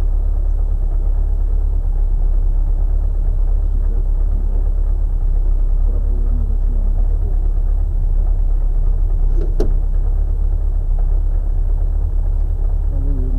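Škoda 130 LR rally car's rear-mounted four-cylinder engine idling steadily while the car waits, heard from inside the cabin as a deep, even rumble. A single sharp click sounds about ten seconds in.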